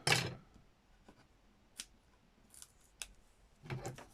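Scissors snipping paper: one loud cut at the start, then a few faint clicks and a short run of scratchy strokes near the end.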